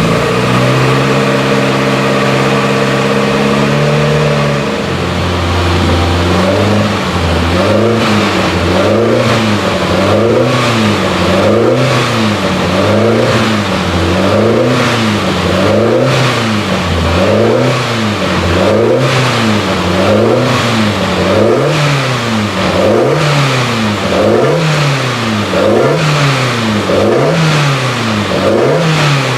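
BMW M3 E30 DTM race car's four-cylinder S14 engine warming up. It holds a steady raised idle for the first few seconds, then is revved up and down again and again in a regular rhythm, about three blips every four seconds.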